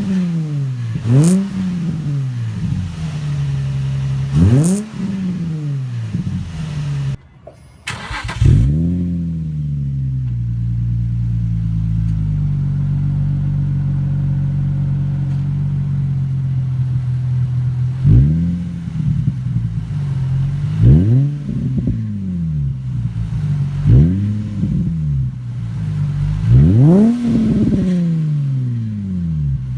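2003 Nissan 350Z's 3.5-litre V6 through an Isis GT cat-back exhaust with aftermarket headers, stock cats and Y-pipe, revved in quick blips that settle back to idle. Several blips, then about nine seconds of steady idle, then four more blips about three seconds apart; the sound drops out briefly about seven seconds in.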